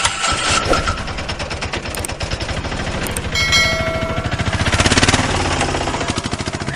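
Rapid, even mechanical rattle of about a dozen strokes a second, with a short ringing tone about halfway through.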